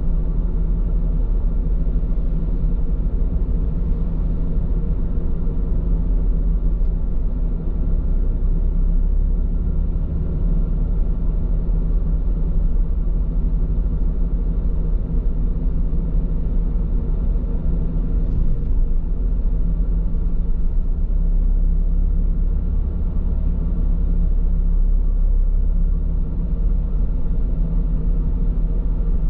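Steady low road rumble of a car driving, with tyre and engine hum, heard inside the cabin through a dashcam microphone; the car runs on Bridgestone Regno tyres, sold for their quietness.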